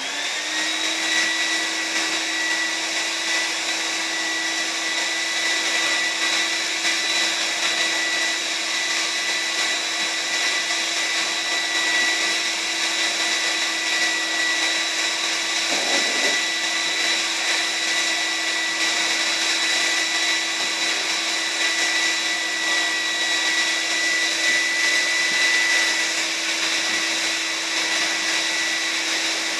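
1989 Numatic Nuvac vacuum cleaner switched on, its motor spinning up at once and then running with a steady high whine over a rush of air. A brief bump about sixteen seconds in.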